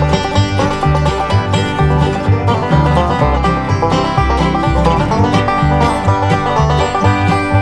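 Bluegrass band playing an instrumental break, with banjo picking over guitar and a bass line that changes note about twice a second.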